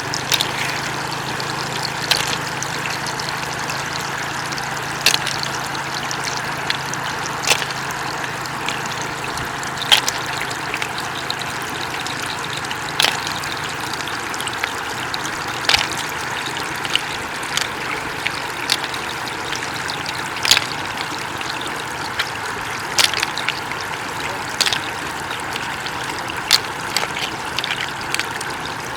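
Shallow floodwater running steadily in a continuous trickling rush. Short sharp splashes or clicks stand out over it every two to three seconds.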